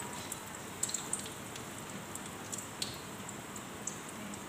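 Carrot and egg omelette frying in a little oil in a non-stick pan: a steady sizzling hiss with scattered small pops and crackles.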